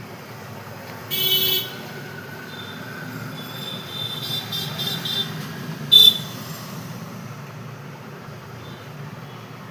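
Steady traffic rumble with vehicle horns: a short toot about a second in, a longer wavering horn sound around four to five seconds, and a sharp loud toot at about six seconds.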